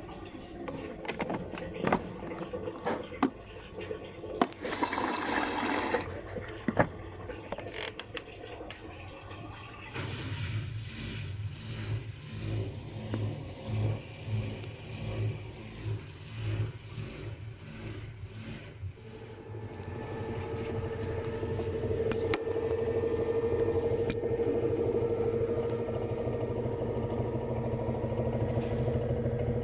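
LG front-loading washing machine mid-cycle. First come clicks and a short swish of water, then the drum turns with pulsing low thumps. About two-thirds of the way through, a steadier motor hum swells and rises slightly in pitch as the drum speeds up.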